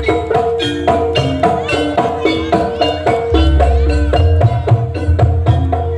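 Live Javanese gamelan music accompanying a jaranan dance: metal-keyed instruments strike a quick, repeating melody over drum strokes and deep low tones.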